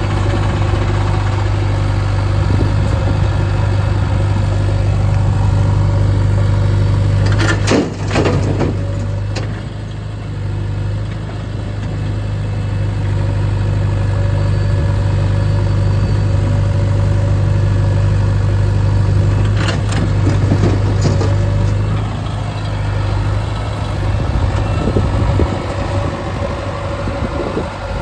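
Diesel engines of a working backhoe loader and tractor running steadily while mud is loaded. A few short, sharp knocks come about eight seconds in and again about twenty seconds in.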